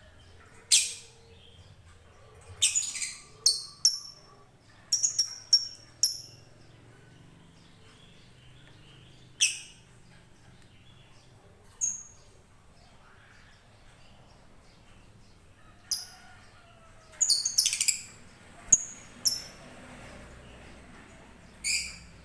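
Blue-and-white lovebird giving short, shrill, high-pitched chirps, some singly and some in quick clusters of two to four, with pauses of a few seconds between them.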